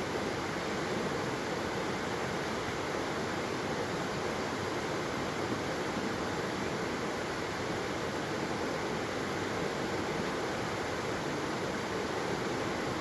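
Waterfall: a steady, unbroken rush of falling water, with no single splashes standing out.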